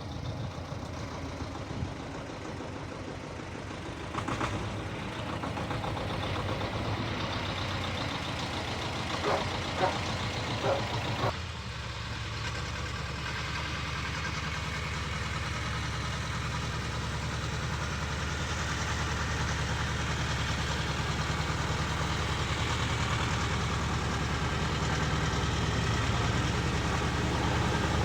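Engine of a walk-behind motor cultivator running steadily while tilling a garden bed. A few sharp knocks come just before its note changes about eleven seconds in, and it grows gradually louder toward the end.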